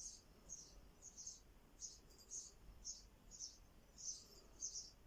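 Faint background chirping of a small bird: short high-pitched chirps repeated about twice a second at uneven intervals.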